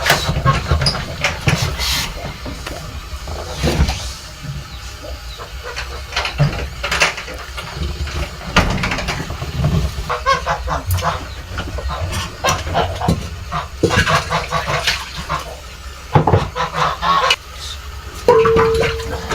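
Farmyard geese honking in short, scattered calls, with one longer held call near the end, over a steady low rumble.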